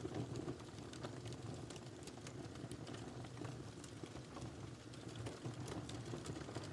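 Firewood burning in a fireplace: a low steady rumble of flames with frequent small, irregular crackles and pops.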